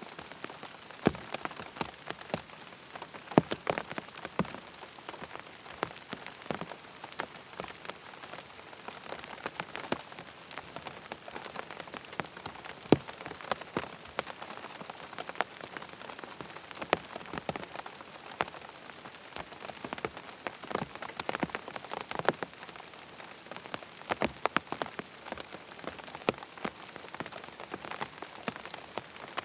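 Steady rain falling, with frequent sharp taps of drops landing close by.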